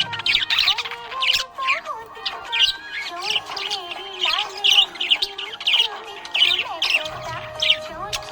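Budgerigar chirping and warbling, a quick run of short chirps that keeps going throughout, with a wavering tune running underneath.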